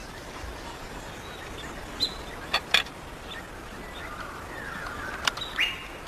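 Birds chirping and calling over a steady outdoor background, with a few sharp clicks, three close together about two to three seconds in and one near the end.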